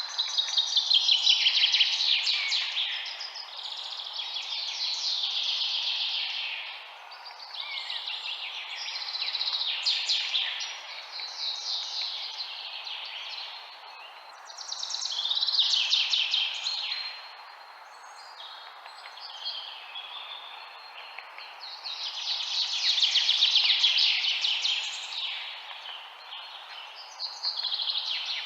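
Birds chirping in dense bouts of rapid high notes that swell and fade every few seconds, over a steady background hiss.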